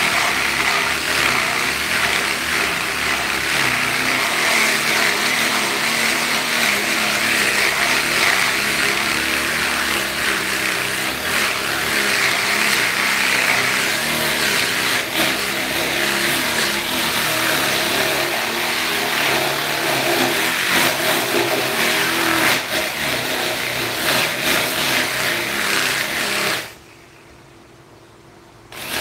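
A power tool's motor running and grinding, its pitch and load shifting unevenly, cutting out suddenly near the end and starting again.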